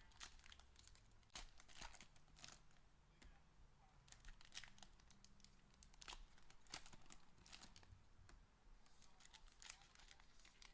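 Faint crinkling and tearing of trading card pack wrappers being opened and handled, a series of short, sharp crackles.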